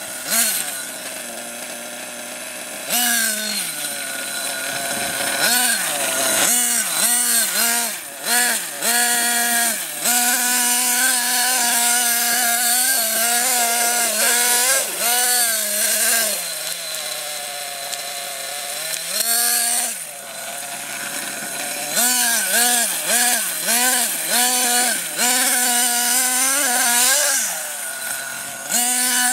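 Nitro RC monster truck's small two-stroke glow engine revving up and down in repeated quick bursts, dropping back to idle between runs.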